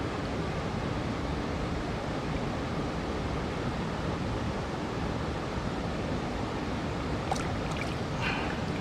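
Steady rushing of a small creek's flowing water, with a couple of faint ticks near the end.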